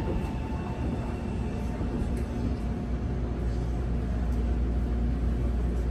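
Interior running sound of a Kintetsu 8A series electric train car: a steady low rumble with a few faint steady tones from the drive, growing slowly louder.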